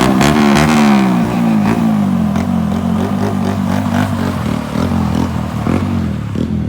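Car engine revving hard during a spin, its pitch rising and falling over and over. It is loudest in the first second, then eases off.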